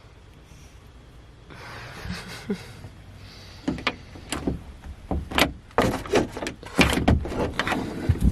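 A rushing slide about two seconds in, then a quick run of sharp knocks and clunks, like a door and objects being handled inside a vehicle.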